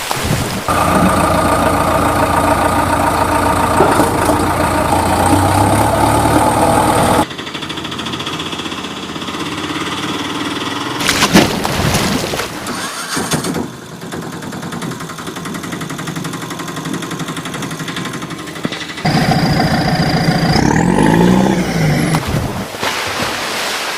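Vehicle engine sounds that change abruptly a few times, as if cut between separate clips. Near the end the pitch rises and falls once.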